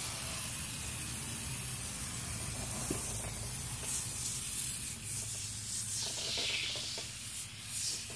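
Aerosol can of tire foam spraying in a continuous hiss that swells and eases as it is worked over the engine.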